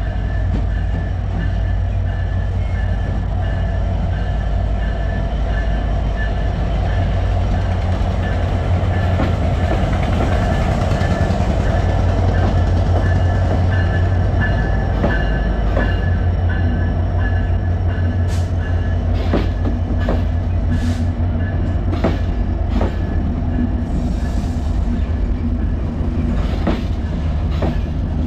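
Diesel locomotive hauling a passenger train, its engine rumbling steadily as the train runs through the station. From about halfway on, the wheels click sharply and irregularly over the rail joints.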